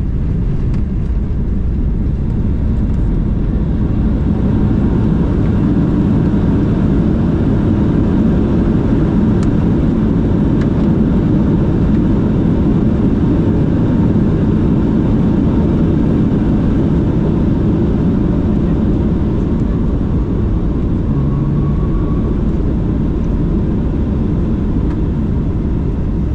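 Boeing 737-900 cabin noise heard from a window seat: the steady rumble of the CFM56 engines and the airflow, swelling slightly in the middle.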